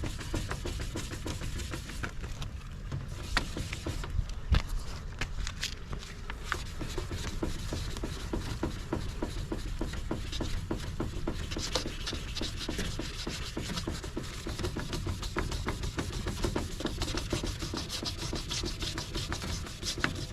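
Sandpaper scrubbing over a plastic headlight lens in quick back-and-forth strokes.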